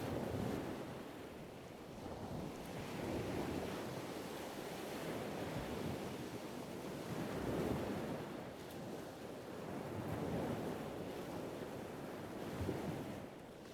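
Sea water washing and lapping, mixed with wind on the microphone. It swells and eases every few seconds.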